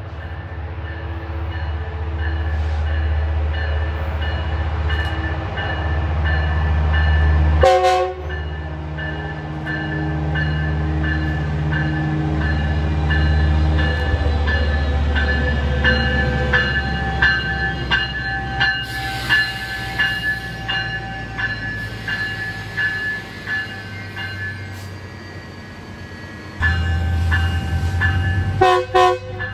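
A diesel train passing: a steady low engine rumble, then the cars' wheels clicking over rail joints in an even rhythm of about two clicks a second. There is a brief loud burst about eight seconds in and again near the end.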